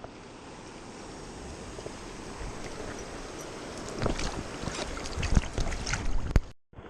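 River current rushing steadily around a wading angler, with a run of sharp knocks and clatter in the second half from gear being handled close to the microphone.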